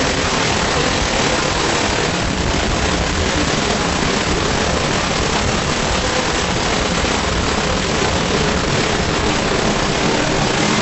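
A 'wah wah' sound effect sped up so far that it has blurred into one steady, dense hiss-like roar with no separate notes left.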